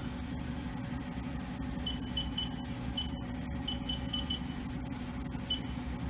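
Haas VF-1 CNC vertical machining center's spindle running steadily at 1500 RPM, a steady hum. A string of short high beeps starts about two seconds in, with one more near the end.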